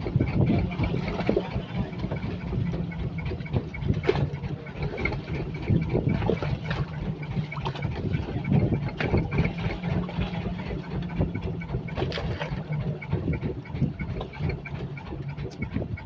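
Boat engine running steadily at a low, even speed, with irregular knocks over it.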